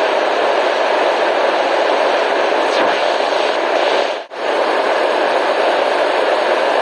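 Steady white noise hiss, strongest in the middle range, that drops out briefly for a moment about four seconds in.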